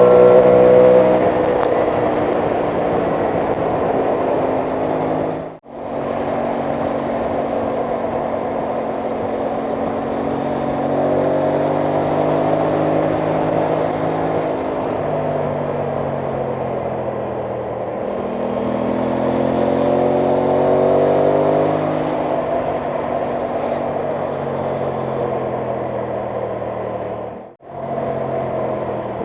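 Aprilia Tuono 660 Factory's parallel-twin engine under way, its pitch rising as it accelerates and falling back several times, with noise over it. The sound drops out briefly twice.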